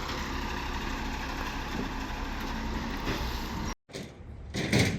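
A large truck engine idling steadily amid outdoor noise, cut off abruptly near the end, then a brief loud sound.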